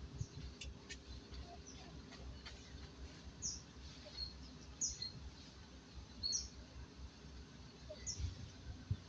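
Short, high bird chirps, about four of them a second or so apart, each falling slightly in pitch, over faint background noise.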